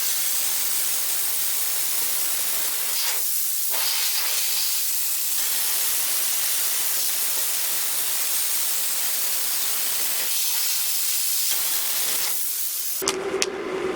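Plasma cutter cutting through a metal tube: a steady, loud hiss of air and arc that stops about a second before the end.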